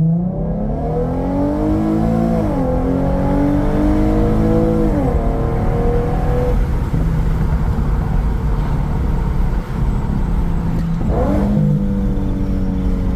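Infiniti Q50's 3.7-litre VQ V6 through a Remark axle-back exhaust, heard from the cabin with the windows down. It accelerates with rising revs and drops in pitch at two upshifts, about two and a half and five seconds in, then cruises at steady revs, with a trumpety exhaust note.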